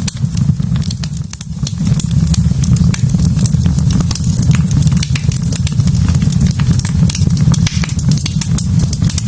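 Wood fire burning in a fireplace: logs crackling with many quick, sharp pops over a steady low rumble.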